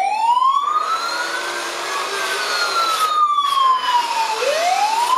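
Toy RC fire truck's built-in speaker playing an electronic wailing siren: the pitch rises for about two seconds, falls for about two, then starts rising again near the end. A little bit loud.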